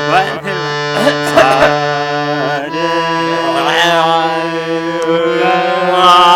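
Harmonium holding a steady drone while a man sings drawn-out practice notes over it, his pitch wavering and sliding.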